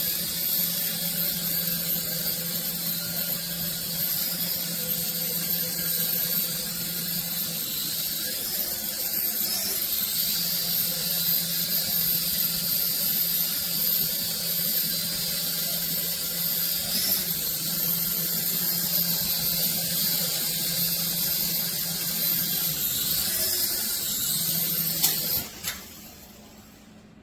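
Small electric motors and rotors of a toy RC helicopter whirring steadily, the pitch briefly rising and falling a few times as the motor speed changes, then winding down to near silence shortly before the end.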